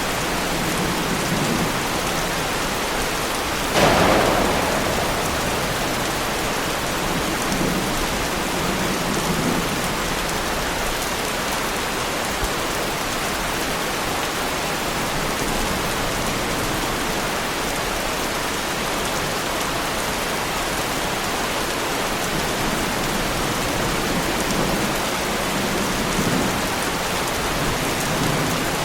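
Heavy rain falling steadily on a Lamborghini Huracán's bodywork, with a sharp thunderclap about four seconds in that fades over a second or so.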